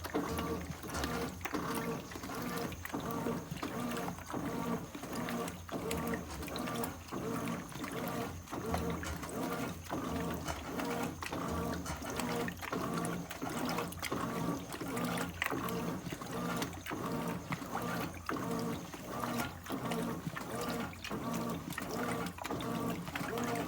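Brastemp 17 kg top-loading washing machine (BWK17A) in its initial agitation stage with two pillows in the load: the agitator motor hums in short, even back-and-forth strokes, about one and a half a second, with water sloshing.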